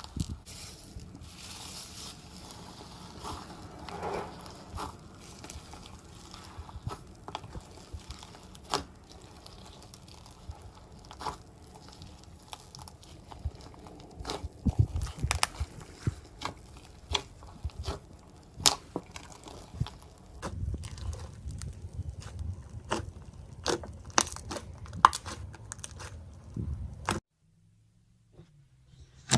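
Slime being squeezed and worked by hand, making irregular crackling, popping clicks and squelches that cut off suddenly near the end.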